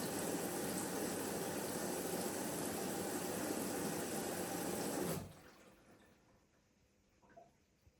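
Water running steadily, like a tap or a fill, then cut off abruptly about five seconds in, leaving near silence.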